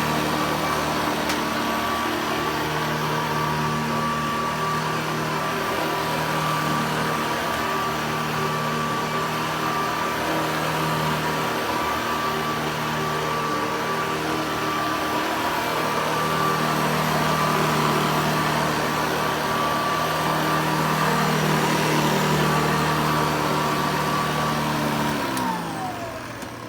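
Hoover Commercial EH50500 vacuum cleaner running steadily with a motor hum and a high whine. About a second and a half before the end it is switched off and the motor winds down, its pitch falling.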